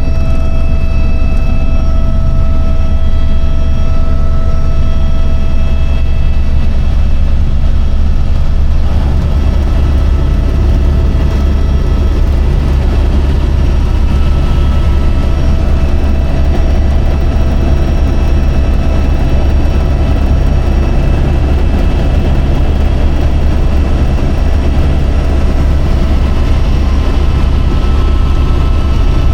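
Helicopter in flight, heard from inside the cabin: a loud, steady low drone with a thin, steady whine above it.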